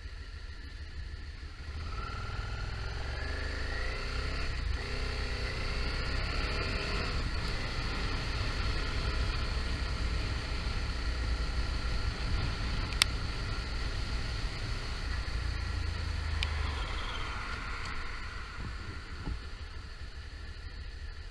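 Suzuki SV650 V-twin engine pulling away, its revs climbing and dropping twice as it shifts up about two seconds in. It then runs steadily at speed and eases off near the end, with a single sharp click around the middle.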